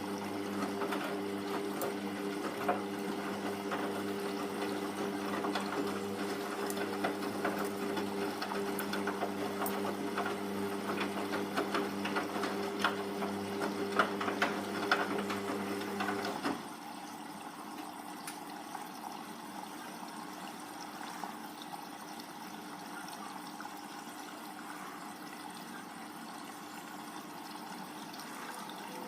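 Hoover Vision Tech VT 914 D22X washing machine tumbling its drum during a 40°C mixed wash: a steady motor hum with water sloshing and the load knocking. The drum stops about halfway through, leaving a quieter wash of water noise as it pauses between turns.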